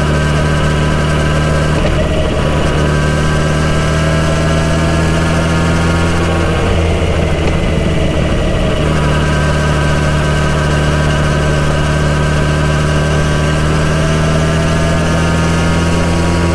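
Kawasaki Z900RS inline-four with a full-system exhaust, pulling as the bike is ridden, its pitch climbing slowly. The engine note breaks off briefly about two seconds in and again for a couple of seconds around the middle, then picks up and climbs again.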